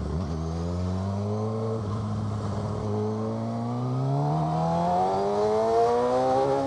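Suzuki GSX-R 600's inline-four engine with an M4 exhaust accelerating hard from a stop, its pitch climbing through the gears with a drop at each upshift, about two seconds and about four seconds in.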